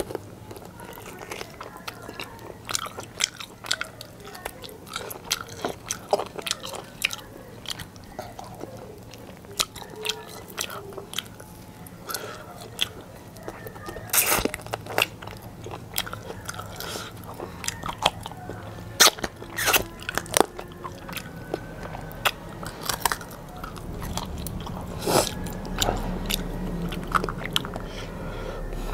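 Close-miked chewing of mouthfuls of biryani rice eaten by hand: many wet mouth clicks and smacks, with a few louder clicks.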